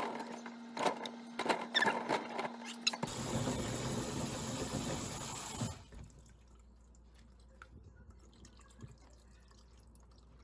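Clinks and knocks for about three seconds, then water running for about three seconds and stopping abruptly. After that it is quiet, with a few faint ticks.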